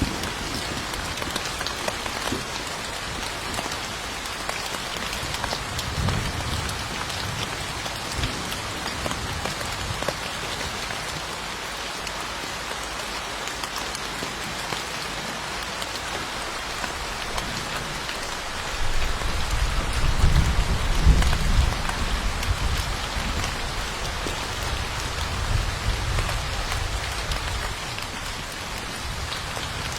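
Steady rain falling, an even hiss throughout. A long low rumble of thunder starts a little past halfway and lasts several seconds, the loudest part.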